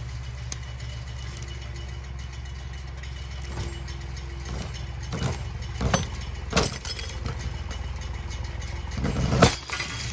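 Tractor engine running steadily while it tugs on a cable rigged to roll a fallen log, with three sharp bangs about five to seven seconds in and a louder bang near the end.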